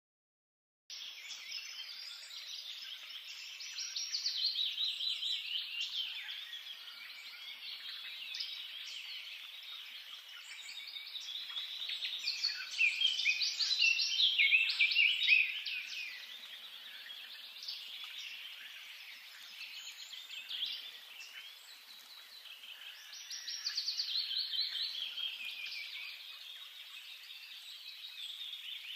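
A chorus of many small birds chirping and singing at once, starting about a second in and swelling louder three times.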